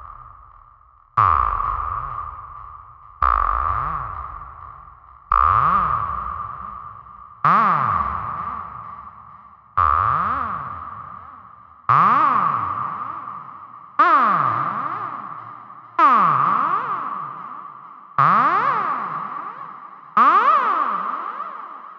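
A series of comic synthesizer sound effects, about one every two seconds, ten in all. Each starts suddenly and fades away, a steady high tone over a pitch that wobbles rapidly up and down, the wobble growing busier in the later hits.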